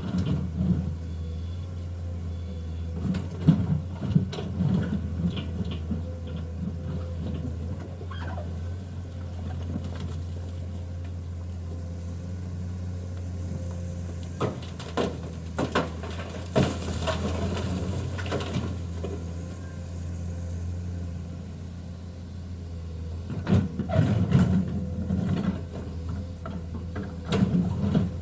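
A heavy vehicle engine running steadily, with clusters of knocks and clatter coming and going several times.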